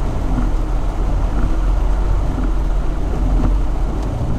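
Jeep Wrangler TJ driving slowly on a wet forest track: a steady low engine and drivetrain drone.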